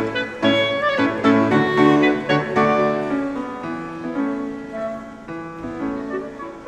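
Live chamber ensemble of flutes, clarinet and piano playing, with piano notes and chords most prominent over held wind tones, growing softer from about two seconds in.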